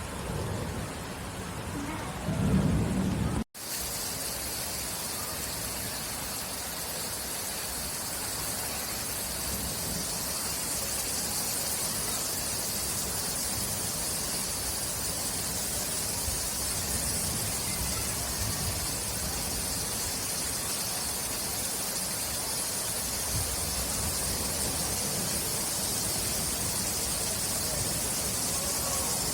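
Steady rain falling, an even hiss. A low rumble of thunder comes about two seconds in, and the sound cuts out for a moment just after it.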